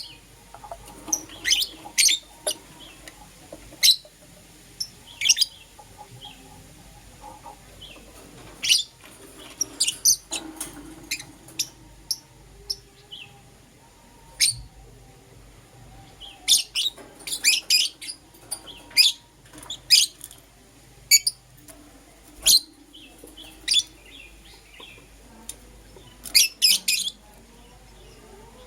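Lovebirds, green opaline and lutino, chirping: short, sharp, high-pitched calls at irregular intervals, some in quick runs of two or three.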